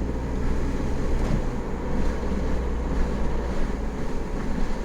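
Mini Cooper S (R56) 1.6-litre turbocharged four-cylinder under way, a steady engine and road rumble heard from inside the cabin.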